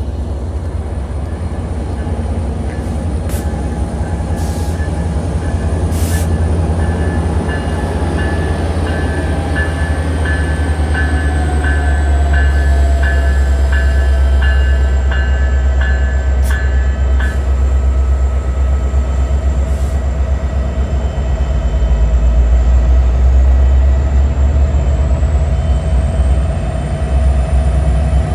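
Metra commuter train arriving at the station: a heavy, steady low rumble of the train, with a bell struck about one and a half times a second through the first half and a thin squeal sliding down in pitch as it slows.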